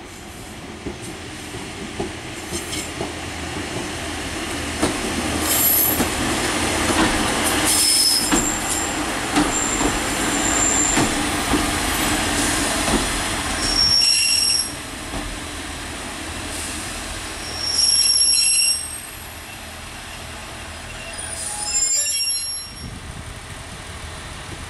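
Diesel multiple unit running into the station, its engine and wheel rumble building as it approaches and passes. It then slows to a stop with high-pitched brake squeals in three short bursts near the middle and end.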